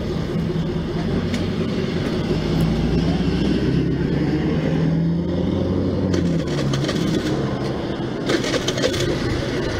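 Small scooter engine running. Its pitch rises gradually and drops back about six seconds in, with some rattling near the end.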